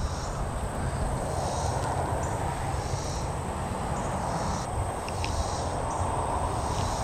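Steady outdoor background noise with a thin, high, constant insect buzz and a few faint ticks.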